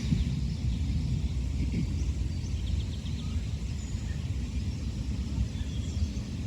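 Outdoor pond-side ambience: a steady low rumble with a few faint, short high bird chirps, including a quick run of four about three seconds in.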